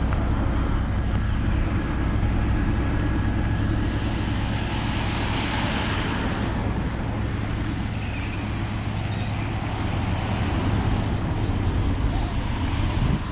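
Heavy truck engine running with a steady low drone, under a rushing road-and-wind noise that swells for a few seconds around the middle.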